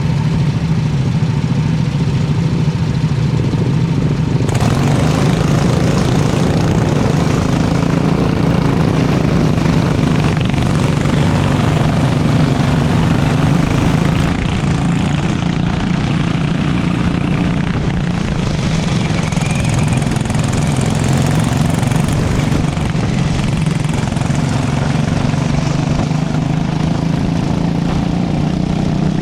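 Go-kart engine running at a fairly steady pitch, with a broad rush of noise that grows louder about four seconds in.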